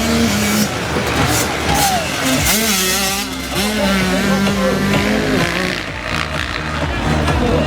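Motocross dirt bikes racing, their engines revving up and down, with music playing underneath.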